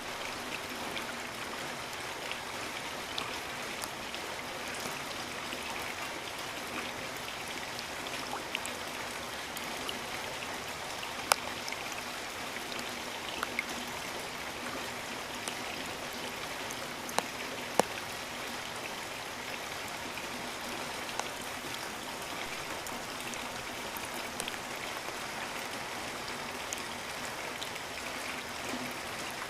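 Steady rain falling as an even hiss, with a few sharp louder drop ticks, the loudest about eleven seconds in and twice near eighteen seconds.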